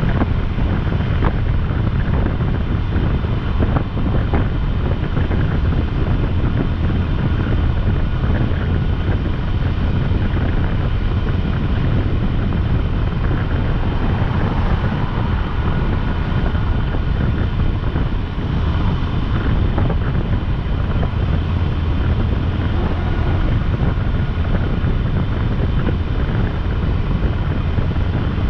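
Steady wind rushing over the microphone of a motorcycle moving at road speed, with the motorcycle's engine and road noise running beneath it.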